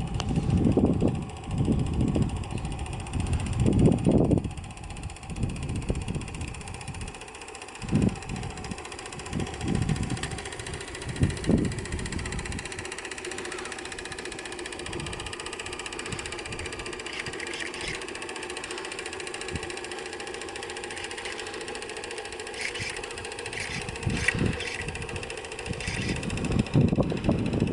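Homemade single-cylinder, double-acting steam engine running steadily, driving the boat. Gusts of wind buffet the microphone through roughly the first half, then the running settles into a steady mechanical hum.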